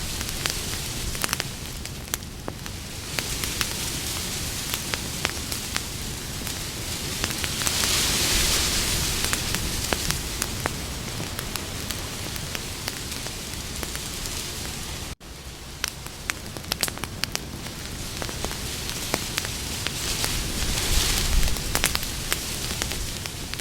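Campfire burning, with a steady hiss and many sharp crackles and pops. The fire swells louder twice, and a brief gap about fifteen seconds in breaks it for a moment.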